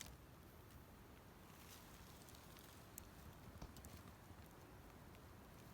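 Near silence: faint background hush with a click at the very start and a few light scattered ticks in the middle.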